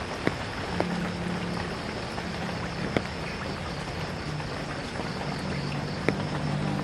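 Steady rain falling, with scattered sharp drips striking close by. From about a second in, a low steady drone sits underneath the rain.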